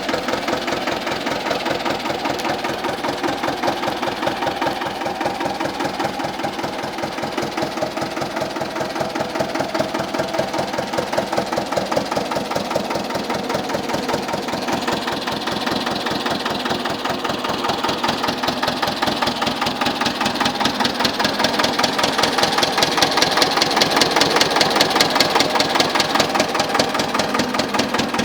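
The diesel engine of a 1953 Güldner tractor running steadily with an even, rapid beat of firing pulses. It grows somewhat louder in the second half.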